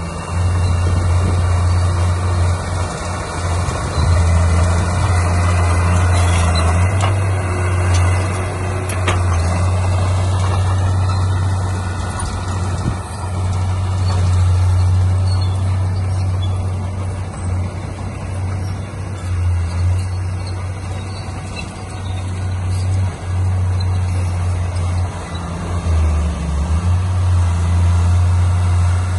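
Heavy diesel engine of earthmoving machinery, a bulldozer or dump truck, running steadily with a strong low drone.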